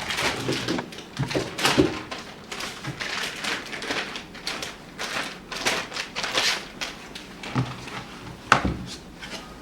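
Plastic packaging and fume-extractor parts being handled, with irregular rustling, scraping and light clicks throughout and one sharp knock near the end.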